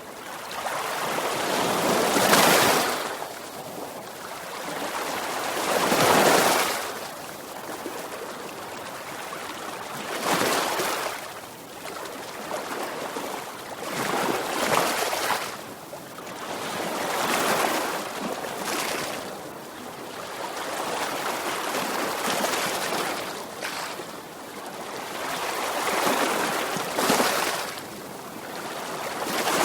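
Sea waves breaking and washing on a shore, a swelling hiss that rises and falls every three to four seconds, the loudest surges a few seconds in.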